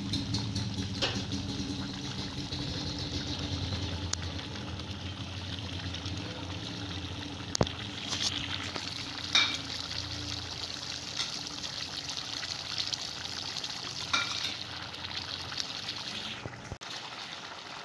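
Chicken, onions and tomatoes cooking in ghee in a pot, a steady sizzling bubble as the liquid cooks off and the chicken turns tender. A few sharp clinks of a utensil against the pot come at scattered moments.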